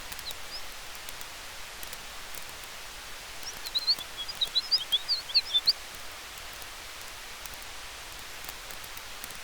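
Campfire ambience: a steady rushing hiss with faint scattered crackles. About three and a half seconds in, a bird gives a quick run of short high chirps lasting about two seconds.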